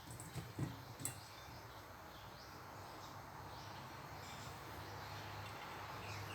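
Steady background noise with a low hum that slowly grows louder. A few soft knocks come in the first second, with faint high chirps.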